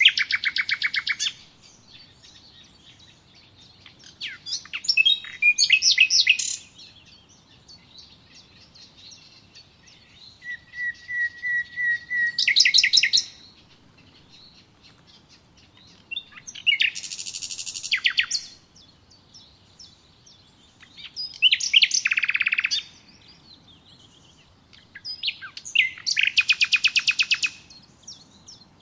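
Songbird singing short phrases, about six in all, a few seconds apart. Each phrase is a few quick sweeping notes ending in a fast trill.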